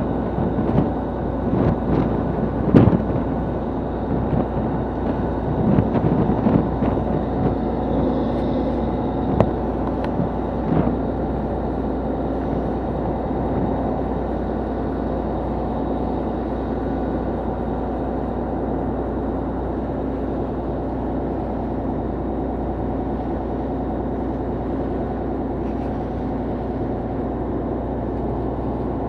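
Fishing boat's engine running with a steady low hum, with a few sharp knocks in the first ten seconds.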